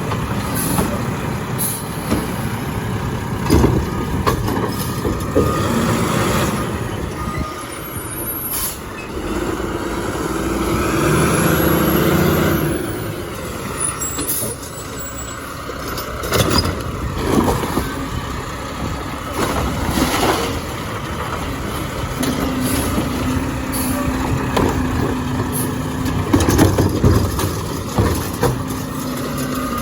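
Garbage truck running, with steady whines coming and going and several sharp knocks, the sounds of a truck working at the curb.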